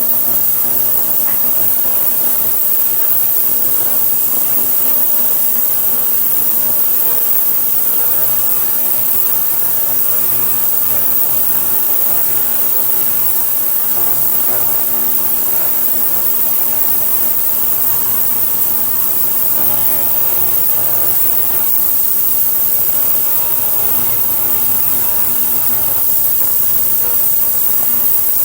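Ultrasonic cleaner running a cleaning cycle: a steady electric hum and buzz with a strong high hiss, holding level throughout, with diesel heater burner parts in its hot bath.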